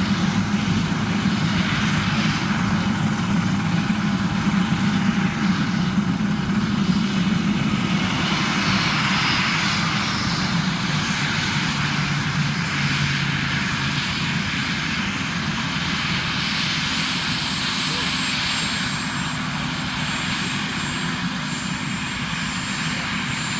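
Large helicopter's turbine engines and rotor running, a steady low rumble with a high whine that slowly falls in pitch.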